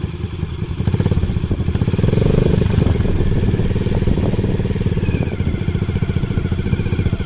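Motorcycle engine running close by, getting louder about a second in and swelling briefly around two to three seconds before running steady.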